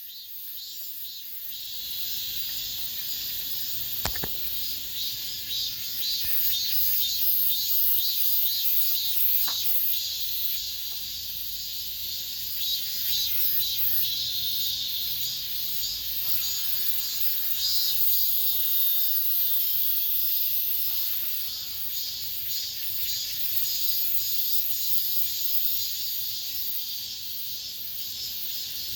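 Cicadas singing in chorus, a dense high-pitched pulsing buzz that swells over the first few seconds and eases off a little past the middle. A single faint knock about four seconds in.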